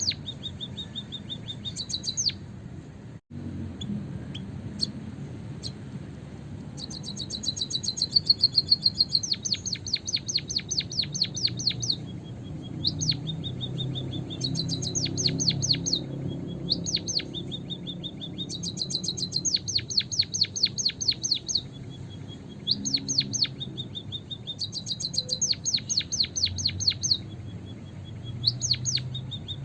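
White-headed munia (emprit kaji) calling in repeated bouts of rapid, high, thin chirps, each bout about one to two seconds long, joined by a thin held high note. These are the calls used to lure the birds.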